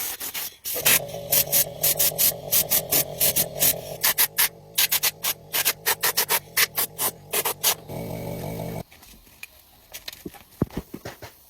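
Rapid back-and-forth rubbing strokes, about four a second, like sanding or scrubbing a metal part, over a steady machine hum. The hum cuts off suddenly near the end, leaving a few scattered light taps.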